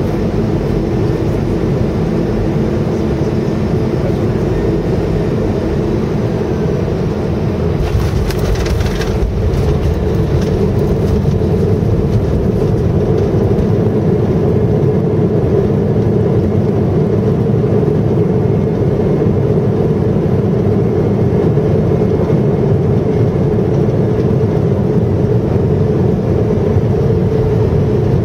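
Airbus A320 cabin noise during landing: steady engine and airflow noise. There is a brief clatter about eight seconds in, and a humming tone grows stronger toward the end.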